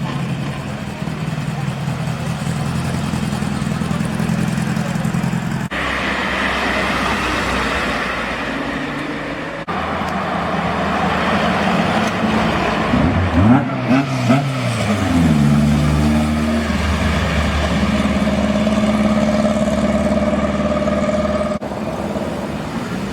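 Classic cars driving past one after another, engines running steadily; about halfway through, one engine's pitch swoops sharply up and down as it revs and passes.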